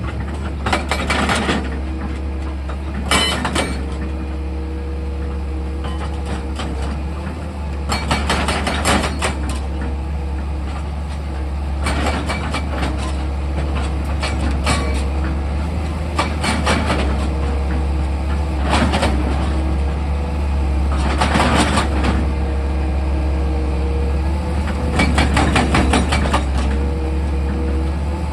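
Excavator's diesel engine running steadily with a low hum and a shifting whine, broken every few seconds by short bursts of metallic rattling and clatter from the machine at work.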